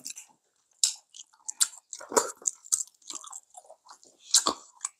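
Close-up chewing and mouth sounds of people eating, irregular and wet, with a few sharper clicks.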